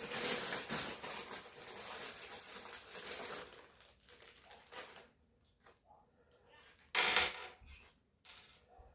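Small metal suspension parts being handled and fitted by hand: rustling and shifting for a few seconds, then scattered light clinks, with a short louder clatter about seven seconds in and another near the end.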